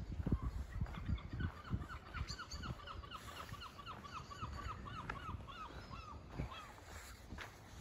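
A bird calling a fast run of short, down-slurred notes, about five a second, for several seconds. Footsteps thud underneath at first.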